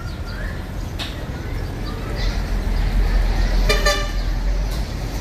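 A road vehicle passes with a low rumble that swells and fades, and sounds one short horn toot just under four seconds in.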